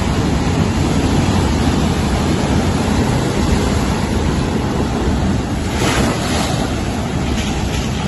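Loud, steady storm noise from hurricane wind buffeting the microphone, with a brief hissing gust about six seconds in.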